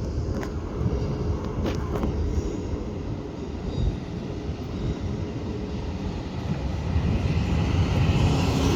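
A train moving through the station: a steady low rumble with a few sharp clicks in the first two seconds, growing louder near the end.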